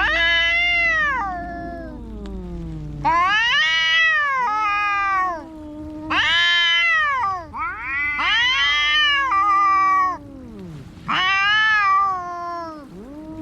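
Domestic cats yowling in a fight: about five long, wavering wails that rise and then fall in pitch, each one to two seconds long. A lower, steadier moan from a second cat runs beneath them.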